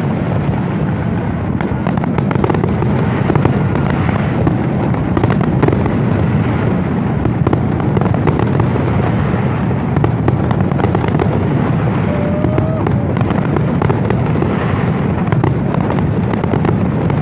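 Fireworks display going off continuously: a dense rumble of overlapping booms with rapid crackling bangs throughout.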